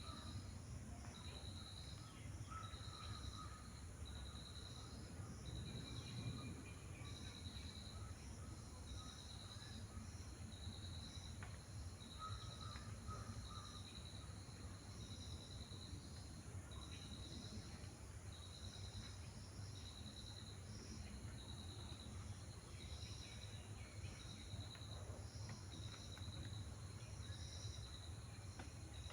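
An insect chirping in regular short pulses, roughly one every second and a bit, with a few faint bird calls and a steady low rumble of outdoor background noise.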